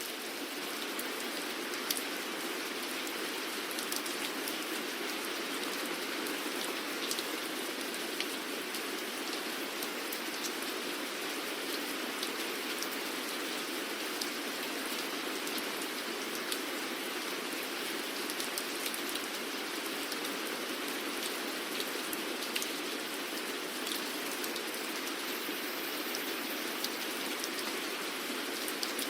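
Steady rain falling, a constant hiss with many small drop taps scattered through it.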